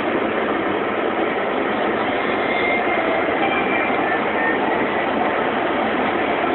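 Steady rushing noise of heavy rain and traffic on a wet road.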